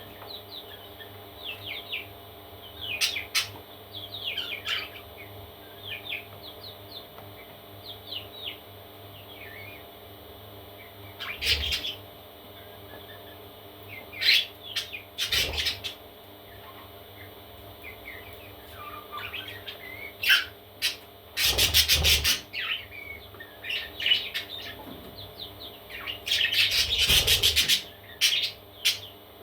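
Parrot chicks chirping in many short high calls, with several louder harsh bursts, over a steady faint hum.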